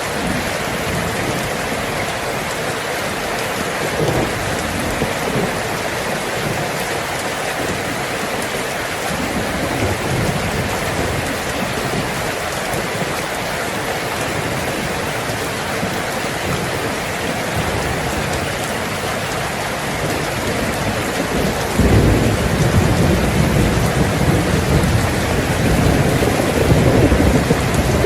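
Heavy rain falling steadily on a tin roof. Thunder rumbles low about twenty seconds in and keeps rolling, with fainter rumbles earlier.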